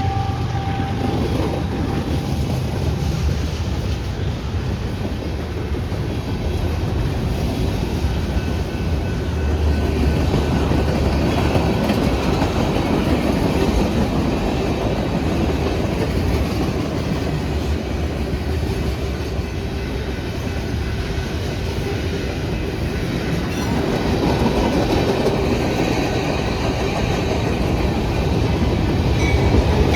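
A train rolling steadily past on the tracks, its wheels clattering on the rails.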